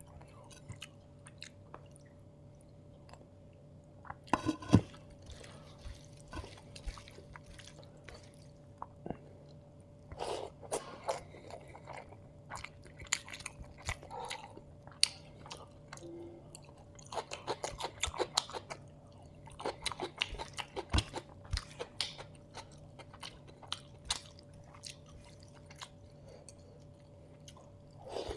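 Close-miked chewing and biting while eating chicken biryani, a run of irregular mouth clicks and short wet bursts with denser bouts of chewing about four seconds in, around ten seconds and again in the second half.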